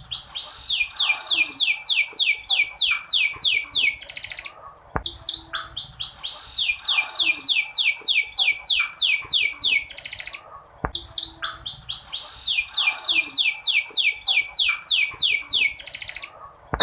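Domestic canary calling in fast runs of falling chirps, about five a second, with the same phrase starting over roughly every six seconds as in a looped recording. It is a lure track meant to set silent male canaries singing.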